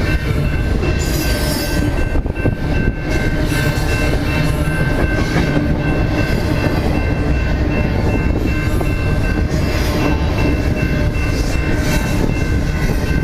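A train running: a steady, loud rumble with a thin, high whine held over it.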